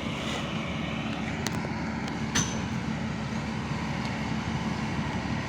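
Kobelko excavator's diesel engine running steadily, with a sharp metallic clank about two and a half seconds in and lighter clicks just before.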